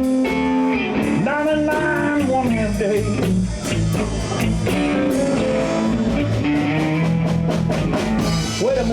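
Live blues band playing: electric guitar over bass and drums, with a lead line bending up and down in pitch.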